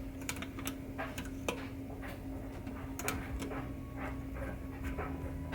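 Scattered light clicks and taps of pinball drop targets being pushed down by hand, dropping sluggishly because their mechanisms are gummed up with grease. A steady low hum runs underneath.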